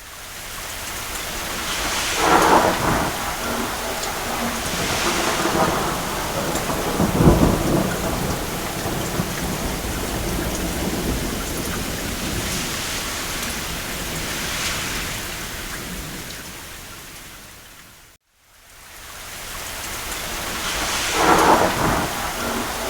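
Steady heavy rain with several rolls of distant thunder; the deepest rumble comes about seven seconds in. After about eighteen seconds the sound fades out to a moment of silence and then fades back in.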